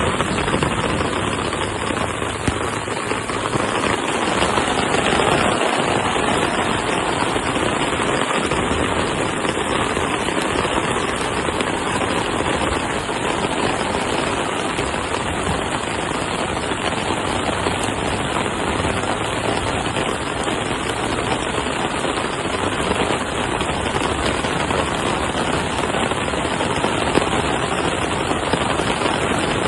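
Heavy rain pouring down in a dense, steady hiss and patter of rapid drops.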